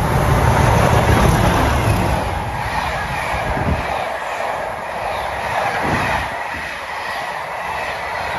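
Locomotive-hauled passenger train passing at speed: a heavy low rumble in the first couple of seconds, then the coaches running by with their wheels clattering on the rails.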